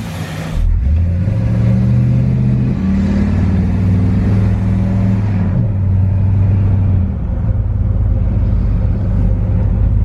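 Chevrolet 350 small-block V8 running in a car, revving up about half a second in, holding steady, then settling lower in pitch in two steps.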